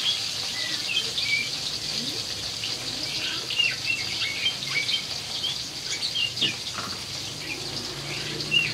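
Sliced eggplant frying in oil in a wok, a steady sizzle, with small birds chirping in short calls over it again and again.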